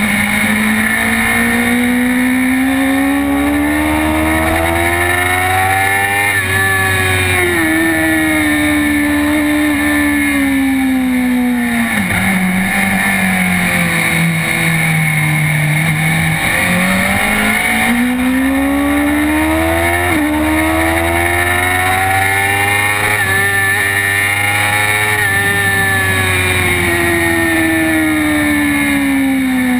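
Sportbike engine heard from on board at track speed. Its pitch climbs steadily through the first several seconds, drops with a small step, and falls to a low point about halfway. It then climbs again to a peak with another quick step and falls away near the end.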